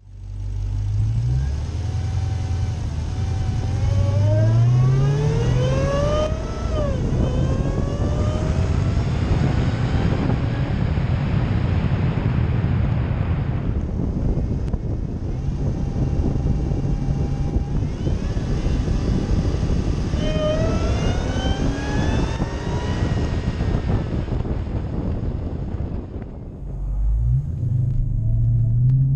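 Dodge Charger's V8 accelerating hard twice, its pitch rising through each gear and dropping back at the upshifts, with steadier cruising between the two pulls.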